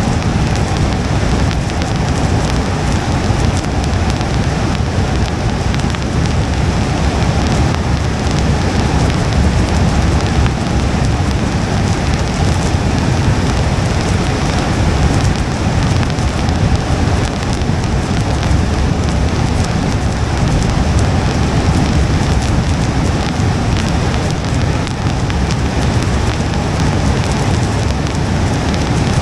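Rain pattering on a moving car's windshield, over a steady low road rumble.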